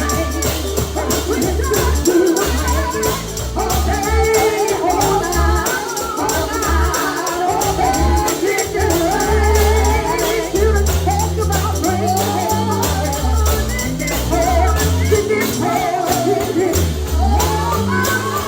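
Live gospel music: voices singing over a tambourine shaken to a steady beat and a stepping bass line.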